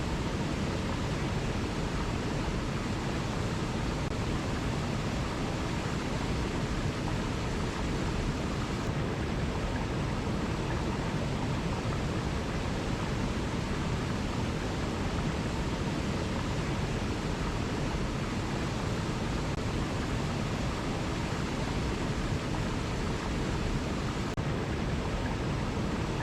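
Waterfall rushing, a steady, even noise of falling water with no breaks or changes.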